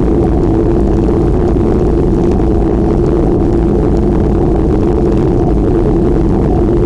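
Steady, loud rumble of wind buffeting the microphone while riding a bicycle, with a constant hum from the ride underneath.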